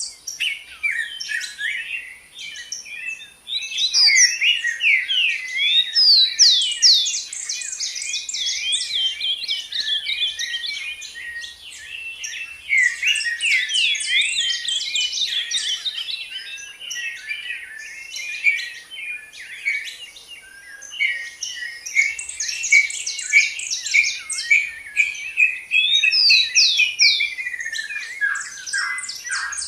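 Songbirds chirping and singing in a busy, continuous chorus of quick, high, overlapping chirps and trills.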